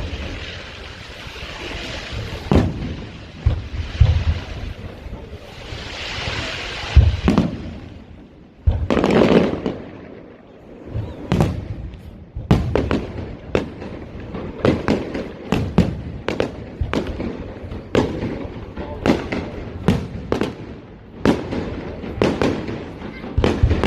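Fireworks display: aerial shells bursting with loud bangs, thinly spaced at first, then a rapid run of sharp cracks from about halfway through.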